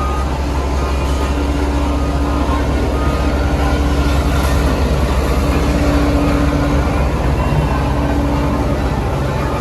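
Heavy construction machinery working on a road: diesel engines running loudly and steadily under a constant deep hum, with no break or sudden event.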